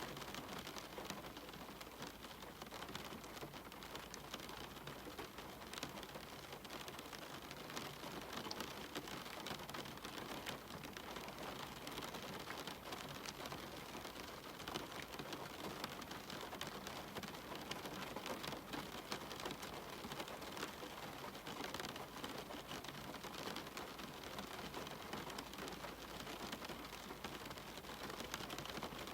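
Steady rain falling, an even hiss with dense patter of individual drops striking surfaces.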